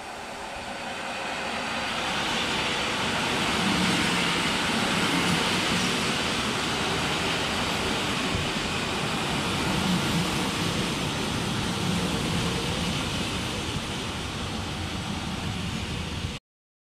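Two coupled white electric multiple units running past along the platform track: a rumble of wheels on rail and a hiss that build up over the first few seconds, stay steady while the carriages pass, then cut off abruptly near the end.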